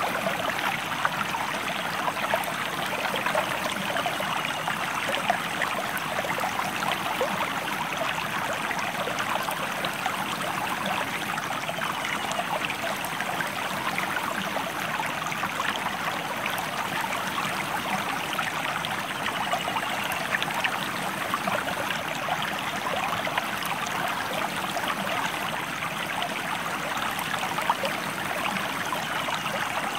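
River water flowing, a steady rush of moving water.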